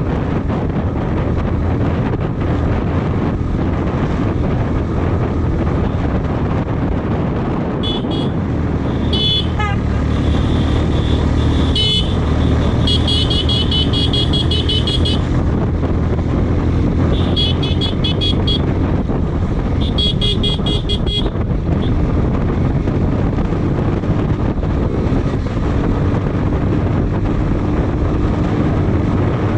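Motorcycle riding with steady engine and wind noise on the microphone, while a vehicle horn sounds repeatedly: a few short toots, then several longer honks over the middle stretch.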